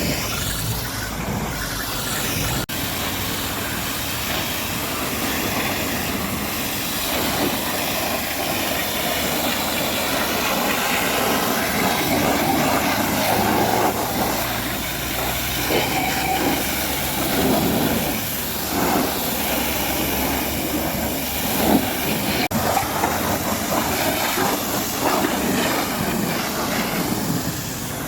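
A high-pressure water jet hissing steadily as it is sprayed over a truck, the spray noise shifting as the jet moves, with two abrupt cuts.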